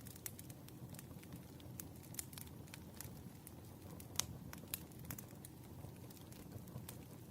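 Wood fire crackling in a fireplace: irregular sharp pops and snaps over a low steady rumble of burning logs, with one louder pop about four seconds in.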